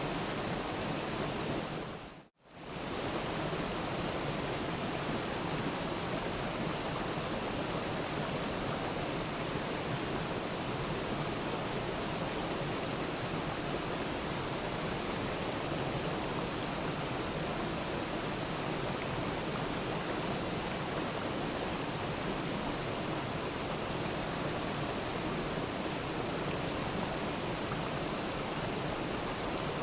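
Waterfall: a steady rush of falling water that briefly fades out and back in about two seconds in.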